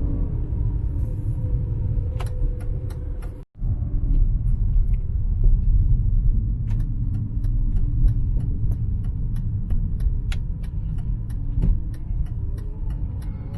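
Car interior rumble while driving: steady low road and engine noise. A light, regular ticking, about three ticks a second, runs through the second half.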